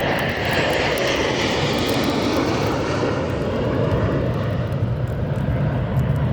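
Airplane engine noise from a fixed-wing aircraft flying past, a continuous roar whose higher part eases off after about three seconds.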